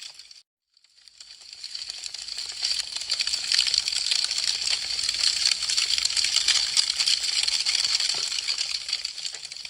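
Wood fire crackling: a dense run of small pops and snaps over a hiss. It cuts out abruptly about half a second in, swells back up over the next couple of seconds, and thins toward the end.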